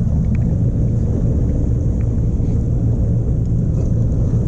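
Motorboat engine running at low speed as the boat slows to come in, a steady low rumble.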